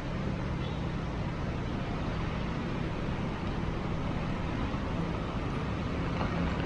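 Heavy rain in city traffic: a steady hiss of downpour over the constant low hum of vehicle engines.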